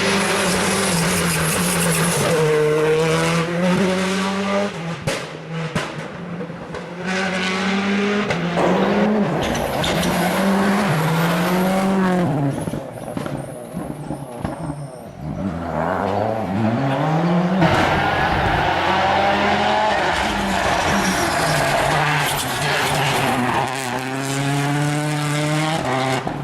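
World Rally Car engines revving hard on a rally stage, their pitch climbing and dropping again and again through gear changes and lifts. The note fades about halfway through, then climbs steeply again.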